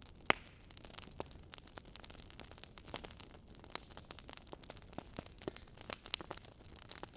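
Wood fire crackling, with irregular sharp pops and snaps and one louder pop near the start.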